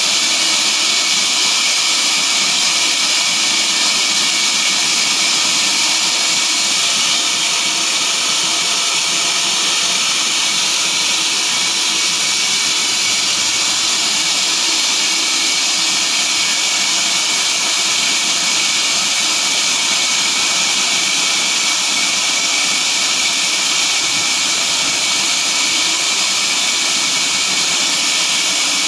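Sawmill machinery running: a loud, even high-pitched hiss that holds steady without pauses or changes.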